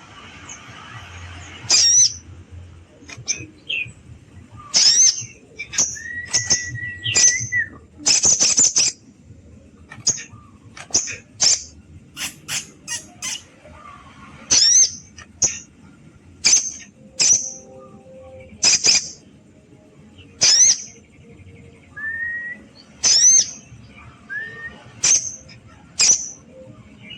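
Sogon bird calling loudly in short, sharp, high call notes repeated at irregular intervals, with a few lower held whistles in between. It is a rival-challenge call, used to rouse other birds to answer.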